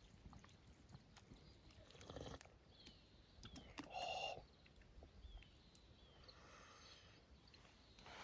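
Near silence with faint scattered clicks and small handling noises, and one brief louder noise about four seconds in.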